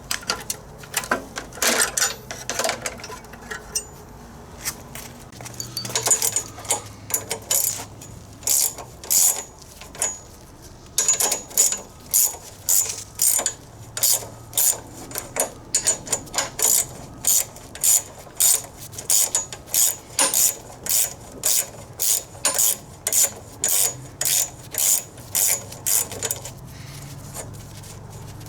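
Hand ratchet wrench being worked back and forth on a bolt, clicking in short bursts. The strokes are irregular at first, then settle after about six seconds into a steady rhythm of about two strokes a second.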